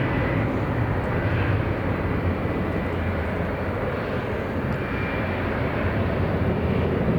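Jet airliner climbing away just after takeoff with its landing gear retracted, its engines giving a steady low rumble.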